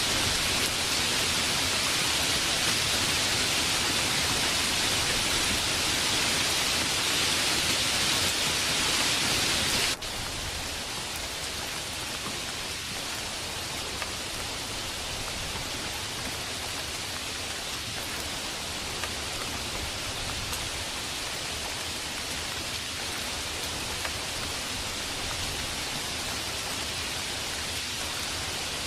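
Steady rain hiss with no single drops standing out. About a third of the way in it drops suddenly to a softer, duller hiss, as at a cut between two rain recordings.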